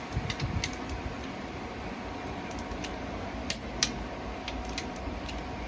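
Steady workshop background hum with scattered light clicks and taps, two sharper clicks close together about three and a half seconds in.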